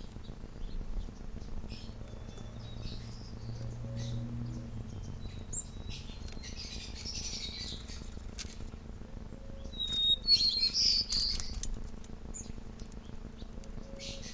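Small backyard birds chirping and calling, with two bursts of busier, harsher chattering about halfway through and again near the end, over a steady low hum.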